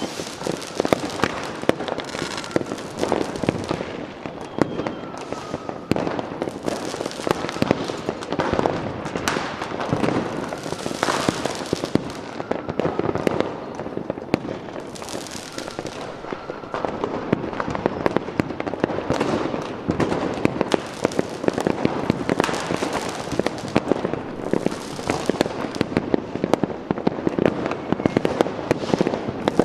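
Fireworks display going off continuously: a dense mass of crackles and bangs from many shells at once, with faint whistles now and then.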